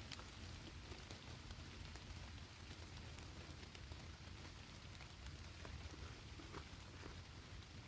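Faint steady rain, with a few scattered drops ticking close by.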